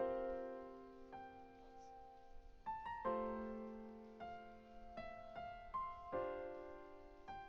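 Slow, gentle solo piano music: a chord struck about every three seconds, each ringing and fading, with single melody notes between.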